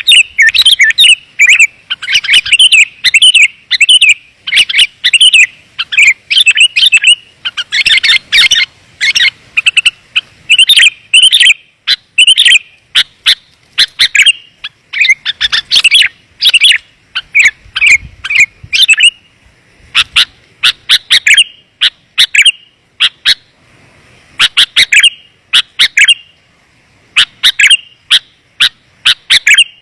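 Sooty-headed bulbul calls, loud and clear, played as a bird-catcher's lure: quick, tightly packed chirping phrases for about two-thirds of the time, then sparser, sharp single notes.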